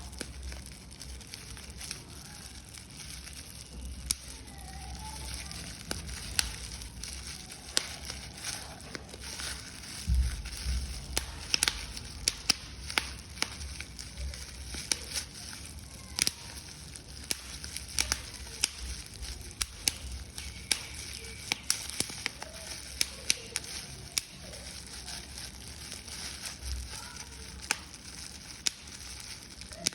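Paper being crushed and crumpled, an irregular crackling of many sharp snaps, with a few dull low thumps of handling, one of them about ten seconds in.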